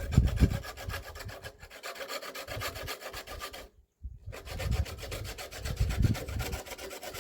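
Fast, even rasping scrapes, about ten strokes a second, breaking off briefly near the middle.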